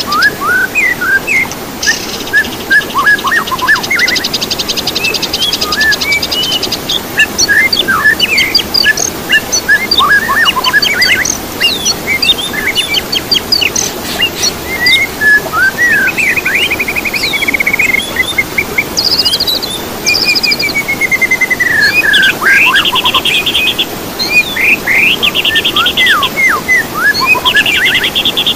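Songbirds singing a fast, varied song of short whistled notes, sweeping chirps and several rapid buzzy trills, over a steady hiss.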